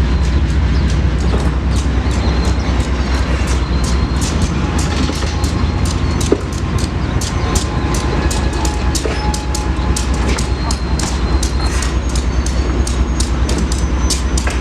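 Freight train rolling by close at hand: a steady heavy rumble with the wheels clicking rapidly over the rail joints, and faint thin squealing tones above.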